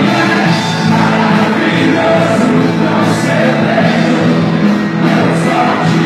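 Live worship music with a band and congregation singing.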